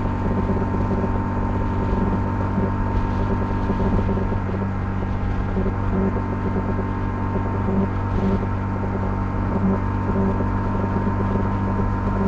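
Honda CL250 motorcycle engine running at a steady cruising speed while riding, a constant engine note with no revving or gear changes, mixed with road and wind rush.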